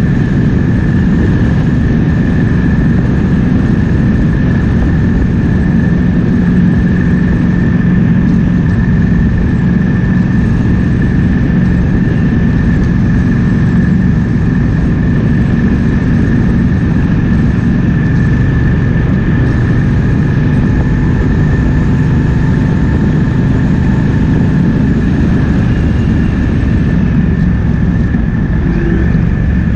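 Triumph Speed Twin 1200's parallel-twin engine running steadily under way, with wind rushing past the rider.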